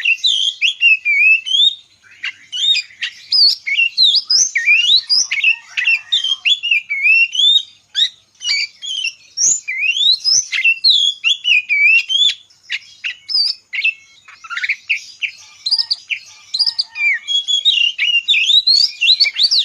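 Birds calling and singing together: a busy, near-continuous run of quick high chirps and whistled glides, with only brief gaps.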